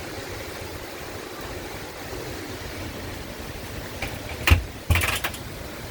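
Steady rushing noise of thunderstorm wind and heavy rain, with two short, loud bursts of wind buffeting the microphone about four and a half and five seconds in.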